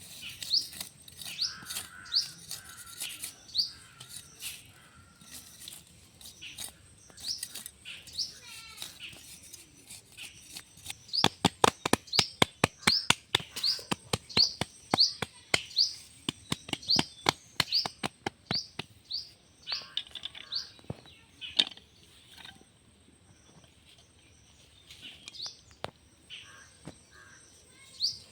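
A small bird chirping over and over in short, high, rising notes, about two a second. For several seconds in the middle, a fast run of sharp clicks is the loudest sound.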